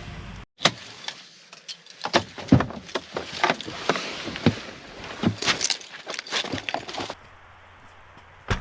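Irregular clinking and knocking, many sharp small impacts like metal objects being handled, for about six seconds. It then drops to a faint steady low hum, with one sharp click near the end.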